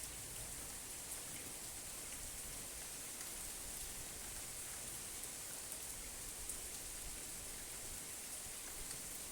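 Steady rain falling, an even hiss with a few single drops ticking now and then; no thunder.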